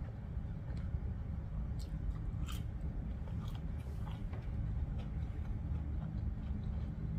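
Close-up chewing and biting into a crispy fried vegetable spring roll, with a few sharp crunches about two to three and a half seconds in. A steady low hum runs underneath.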